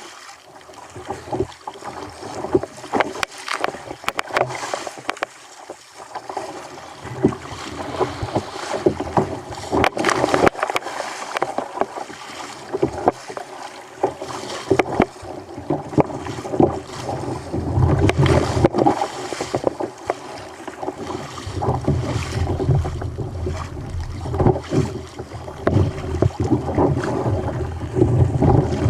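Water splashing and sloshing against a fishing kayak on a rough sea, with many short knocks and wind buffeting the microphone.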